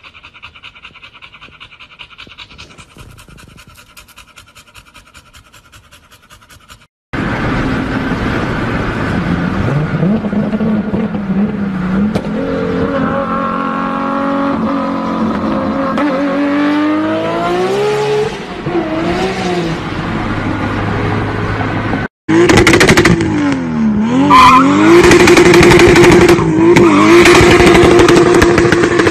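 Loud performance car exhausts revving, in separate clips. First comes a faint, evenly pulsing sound. About seven seconds in, an engine cuts in and revs up in climbing steps. After another cut, a second engine is blipped a few times and then held at high revs.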